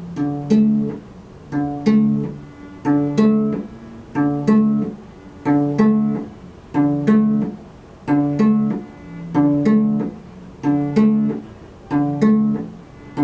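Cello played pizzicato: plucked low notes in a short two-to-three-note figure that repeats evenly about every second and a half.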